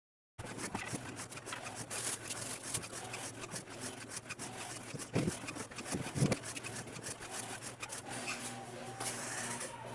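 Household handling sounds while cleaning out a refrigerator: rubbing and wiping with small clicks and clatter of items being moved, and two dull thumps about five and six seconds in.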